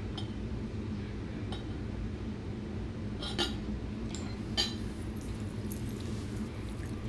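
A few light clicks and clinks of tableware during eating, the sharpest about halfway through, over a steady low hum.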